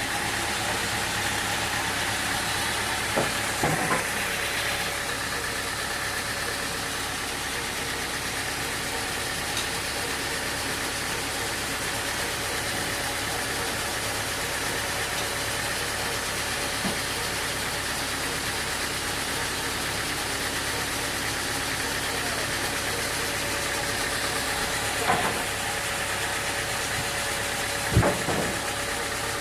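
Sawmill machinery running at a steady drone, with a few sharp knocks a few seconds in and twice near the end.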